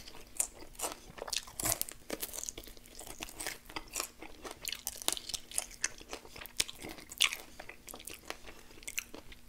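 A mouth chewing and crunching extra-crispy fried chicken wings close to the microphone: a quick, uneven run of sharp crackling crunches.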